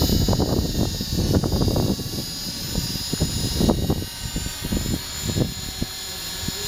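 Align T-REX 450 Pro electric RC helicopter running, its Scorpion HKII 2221-8 brushless motor and rotor head giving a steady high whine. Irregular low gusty rumbling sits underneath and is loudest in the first half.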